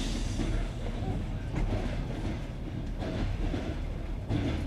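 Passenger train carriage running over jointed rails, a steady rumble with the clack of the wheels passing over the rail joints.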